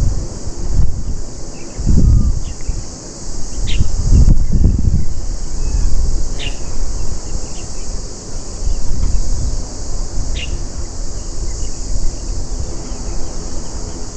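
Steady high-pitched insect chorus with a bird giving short sharp chirps every few seconds, over wind buffeting the microphone in gusts that are strongest in the first five seconds.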